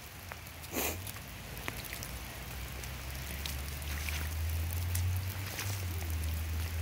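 Light rain and footsteps on a wet forest trail, with scattered faint ticks and a short rustle about a second in, over a steady low rumble that grows a little louder toward the end.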